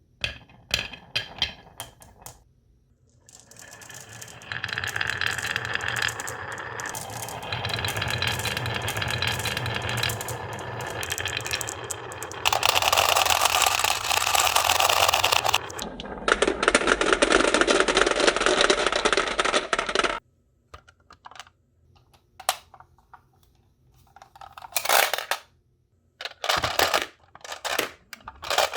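Marbles rolling and clattering along a marble run of rain-gutter channels and wooden rails: scattered clicks, then a long continuous rolling with ringing tones that changes character twice and stops suddenly about 20 seconds in, followed by more scattered clicks and knocks.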